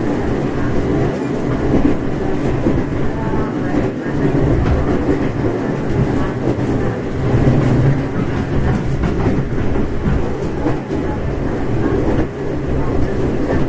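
Running noise heard inside a 415 series 1500-subseries electric multiple unit under way: a steady rumble of wheels on rail with a few faint rail-joint clicks.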